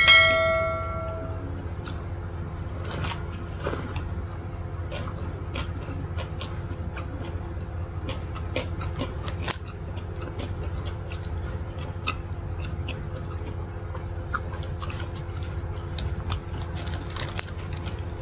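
Close-up chewing of a burger: scattered soft clicks and mouth sounds over a steady low hum. A short bell-like chime rings out at the very start and fades over about a second.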